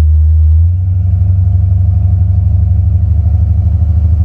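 Stage-1 Buick 455 V8 in a 1987 Buick Regal-T, fitted with a TA Performance TA290-08H camshaft, running with a deep, steady exhaust drone. Its note shifts slightly about a second in.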